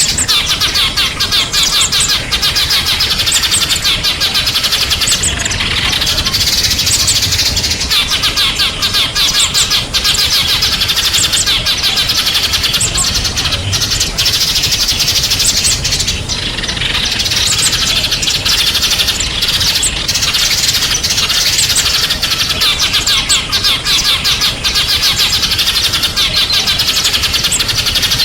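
Small songbirds chirping and twittering in a dense, unbroken stream of rapid high-pitched notes, over a low rumble.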